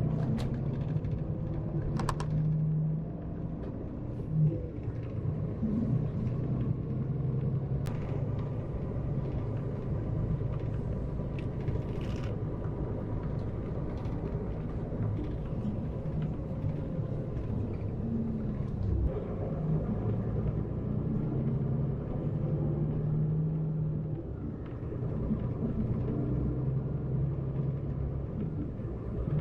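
Steady low rumble of a moving double-decker bus heard from inside the cabin: Scania engine and road noise, the engine's pitch shifting now and then. A few short clicks or rattles, about 2, 8 and 12 seconds in.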